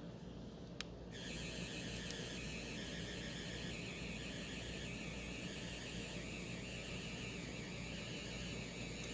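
A 3D pen's small filament-feed motor whirring with a high-pitched whine, starting about a second in just after a click and then running steadily.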